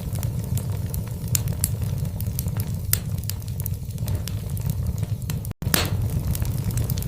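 Logs burning in a fireplace, crackling with frequent sharp pops over a steady low rumble. A little past halfway the sound cuts out for an instant, then a louder pop follows.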